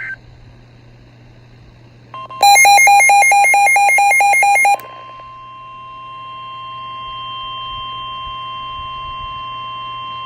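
NOAA Weather Radio warning alarm tone: a steady tone near 1,050 Hz that starts about two seconds in and holds. For its first two and a half seconds a much louder rapid beeping, about four to five beeps a second, sounds over it. The tone signals that a warning (here a severe thunderstorm warning) is about to be read.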